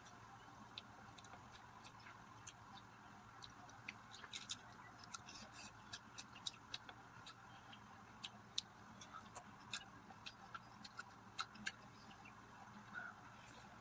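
Close-miked eating of mutton curry and rice: faint, irregular wet mouth clicks and smacks of chewing over a low steady background.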